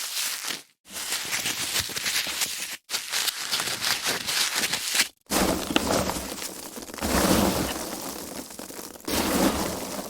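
Foam packaging being handled: dense rustling, squeaking and crackling of the foam, broken by brief pauses about a second in, near three seconds and about five seconds in, with heavier handling in the second half.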